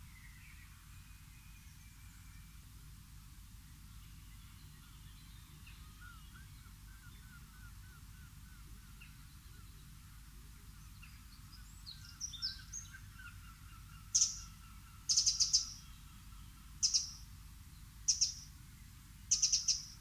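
A small songbird gives loud, sharp, high calls, five quick bursts a second or so apart in the last six seconds. Faint distant birdsong and twittering run beneath.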